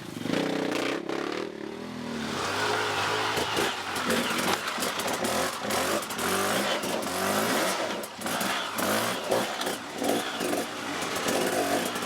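A motor vehicle engine revving up and down repeatedly, its pitch rising and falling throughout, with many short clattering knocks mixed in.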